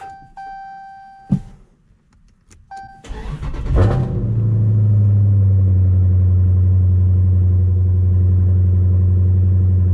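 A few dashboard chimes and a click, then a Dodge Challenger's Hemi V8 cranks, fires about three seconds in, flares briefly and settles into a steady idle. This is a start on a freshly installed unlocked PCM.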